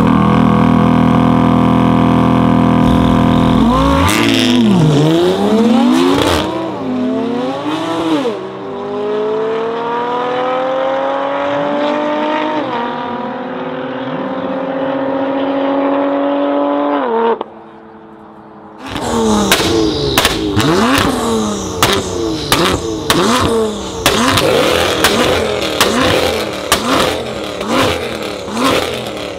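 BMW M3 F80 with a decat Milltek exhaust and an Audi R8 held at high revs on the start line, then launching and pulling through several upshifts as they race away, the engine note rising and dropping back with each shift. After a short quieter gap, the M3's twin-turbo straight-six is revved hard over and over in quick blips, with many sharp pops and bangs from the exhaust.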